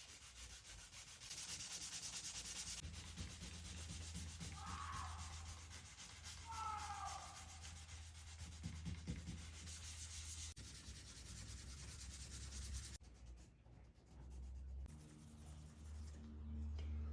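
320-grit sandpaper rubbing over a surface, a dry hiss that comes and goes in stretches, scuffing it down before paint.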